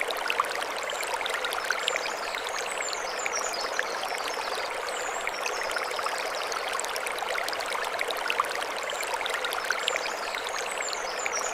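Mountain stream flowing over stones: a steady rush of water dotted with many small splashes. A high wavering chirping sounds twice, about two seconds in and again near the end.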